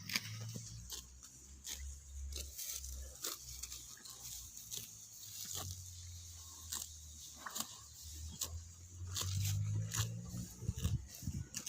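Cow grazing: grass tearing and crunching as it is pulled up and chewed, in irregular crisp snaps several times a second over a low rumble.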